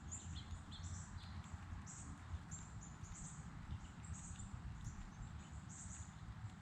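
Small birds chirping: a steady stream of short, high chirps, several a second, over a low steady rumble.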